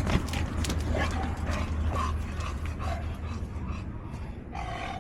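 Short high-pitched animal whimpers and yips, with one longer whine near the end, over a steady low hum and a few clicks near the start.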